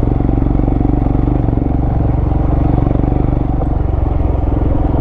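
Vehicle engine running steadily under load while climbing a rough off-road trail. The engine note shifts slightly about three and a half seconds in.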